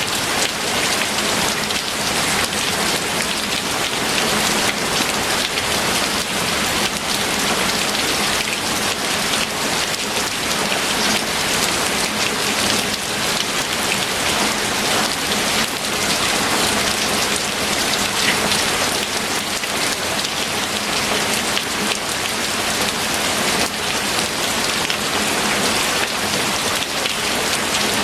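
Steady rain falling on a hard surface: a dense, even patter of drops with no break.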